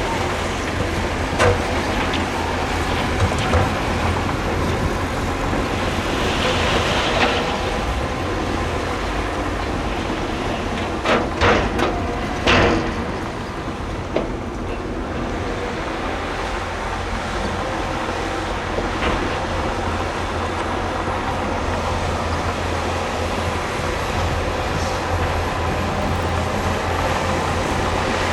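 Heavy diesel earthmoving machinery running steadily with a deep rumble. Sharp metallic clanks come now and then, with a cluster of loud ones near the middle.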